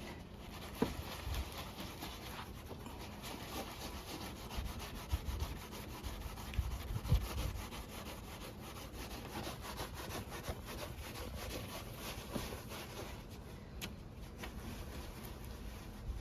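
Steady scrubbing and rubbing on the plastic lens of a removed car headlight, many small scratchy strokes in a continuous run, as it is cleaned to clear its cloudiness.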